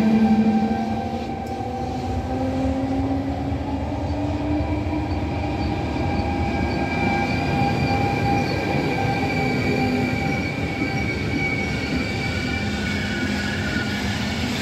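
Electric locomotive and its passenger coaches passing close by at speed: a steady rumble of wheels on the rails, with thin steady whining tones over it. It is loudest in the first second as the locomotive goes by, then stays even as the coaches roll past.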